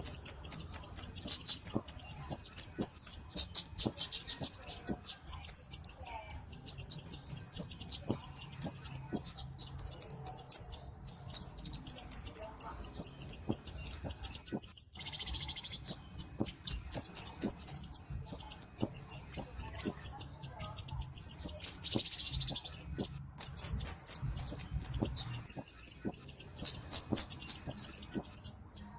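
Kemade (cabe-cabean) flowerpecker singing: fast runs of thin, very high-pitched notes, many per second, broken by brief pauses.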